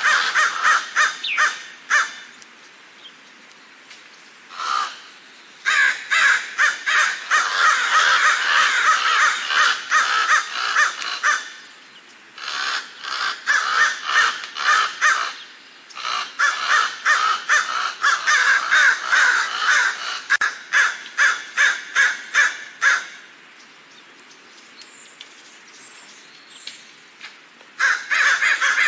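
Crows cawing in long runs of quick repeated caws, the calls overlapping densely at times, with short pauses between runs and a lull of a few seconds near the end.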